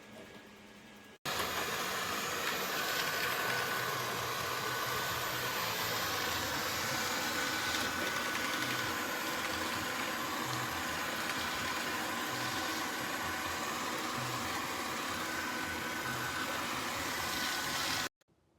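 Dreame D9 Max Gen2 robot vacuum running: a steady mechanical noise with a faint high whine. It starts abruptly about a second in and cuts off suddenly near the end.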